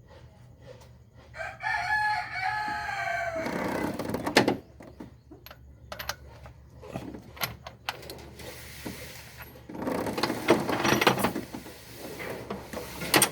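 A rooster crowing once, a call of about two seconds that drops in pitch at its end. It is followed by scattered sharp knocks and a burst of clatter.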